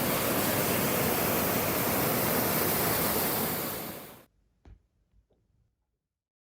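A steady rushing noise, even across all pitches, that cuts off abruptly about four seconds in, followed by a few faint clicks.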